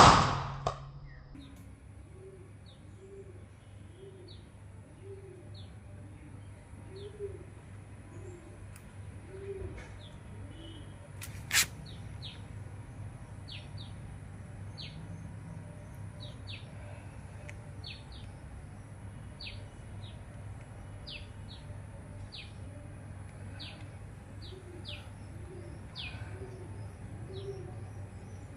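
Small birds chirping and a dove cooing in a repeated series of low notes, with a sharp air rifle shot at the very start and another sharp crack about twelve seconds in.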